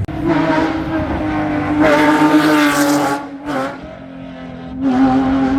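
Race car engine running hard at high revs as a car climbs past. It is loudest about two seconds in, fades briefly, and swells again near the end.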